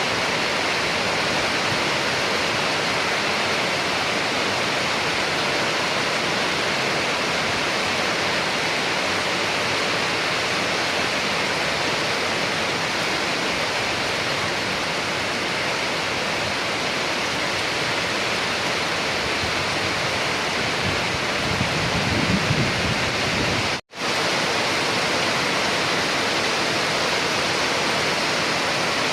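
Steady heavy rain, an even rushing hiss. About three-quarters of the way in a low rumble swells briefly, and just after it the sound cuts out for a split second before the rain resumes.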